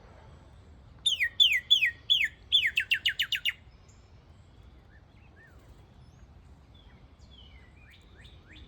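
A songbird singing a loud series of clear downslurred whistles, a few slow ones and then a quicker run, lasting about two and a half seconds. Fainter chirps follow near the end.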